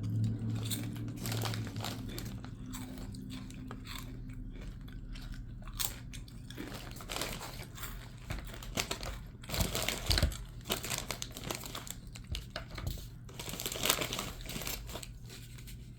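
A person chewing and crunching kettle-cooked potato chips close to the microphone, in a run of short crunches, the loudest about ten and fourteen seconds in.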